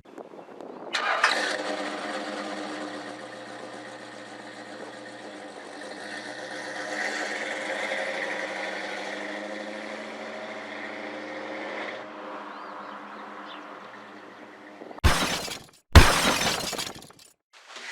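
A vehicle engine catches about a second in and runs steadily for roughly eleven seconds, then fades. Near the end come two short, loud, sharp noises about a second apart.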